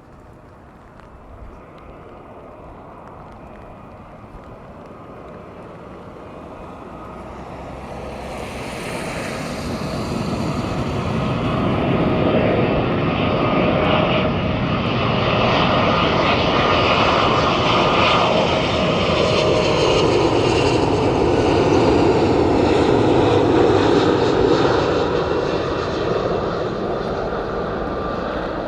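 An aircraft's engines approaching and passing close by: a roar that grows steadily louder over about ten seconds, stays loud with a steady whine on top, and eases off a little near the end.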